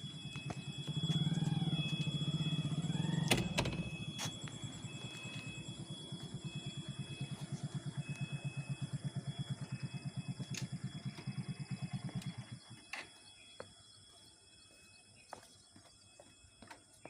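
A train running, a low rumble with a fast rhythmic beat of about five pulses a second, which stops fairly suddenly about twelve seconds in. A couple of sharp clicks come early, a steady high tone runs throughout, and faint scattered clicks follow once the beat stops.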